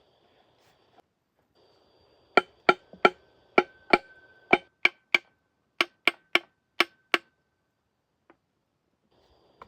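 A hammer striking metal, about fifteen sharp blows at roughly three a second, with a ringing tone lingering after the strikes.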